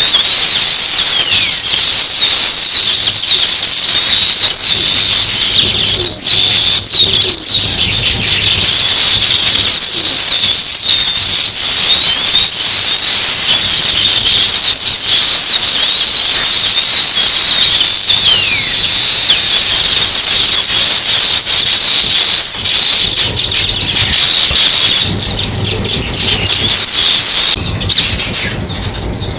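Dense chorus of a flock of small birds chirping: many short, high, falling chirps overlapping without pause. The chorus thins a few seconds before the end.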